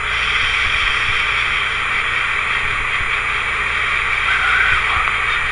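Steady hiss of a voice recorder's background noise with a low hum underneath, with a faint short tone about four and a half seconds in.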